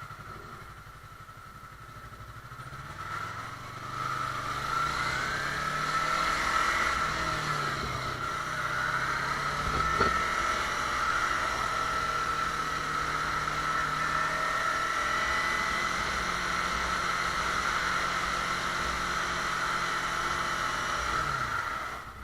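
Motorcycle engine pulling away, its pitch climbing a few seconds in, then running steadily at speed before dropping off near the end. A single brief knock comes about ten seconds in.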